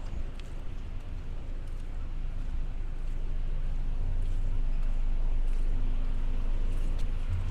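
A motor engine passing by with a low, steady hum that swells over a few seconds and then fades slightly near the end, over a background of wind and surf noise.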